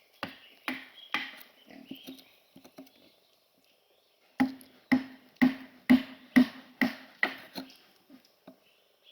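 Repeated sharp knocks of a tool striking wood: a few scattered strikes, then a steady run of about eight, roughly two a second.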